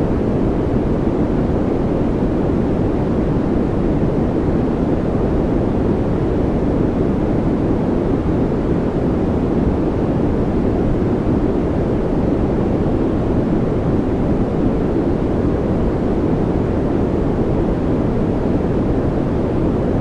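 Continuous steady noise played as a 'white noise' track for focus and calm. It is deep and rumbling, with most of its weight low and little treble, and it does not change.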